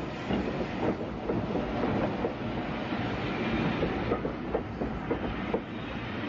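A train passing slowly, its wheels giving irregular clicks and knocks over rail joints and pointwork above a steady rumble.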